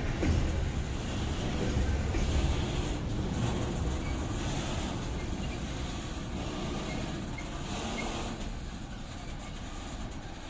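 Train rolling slowly through a station on steel rails: a steady low rumble with faint knocks of wheels over the rail joints.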